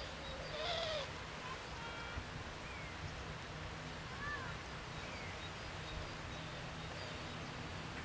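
Outdoor ambience with bird calls: one louder call with an arched pitch about half a second in, then a few short, faint chirps, over a steady low rumble.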